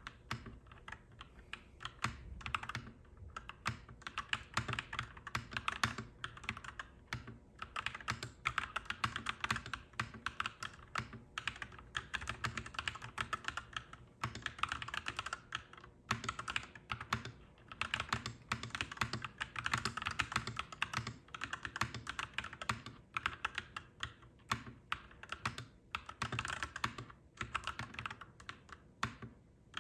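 Clacky mechanical keyboard being typed on in fast, continuous runs of keystrokes, broken by a few brief pauses.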